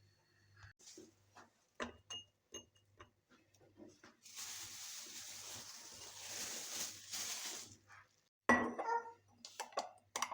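Household kitchen sounds: a few light clicks and taps, then about four seconds of running water, then clinks of dishes near the end.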